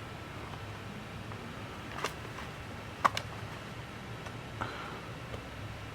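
A few light, sharp clicks: one about two seconds in, two close together about a second later, and a softer one near five seconds. A steady low hum lies under them.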